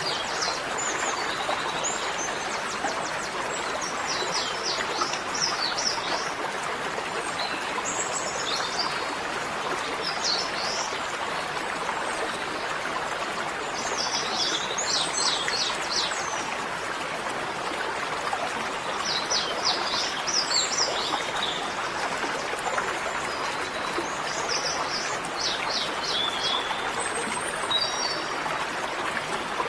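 Birds singing in short, high trilled phrases that recur every few seconds, over the steady rush of a stream.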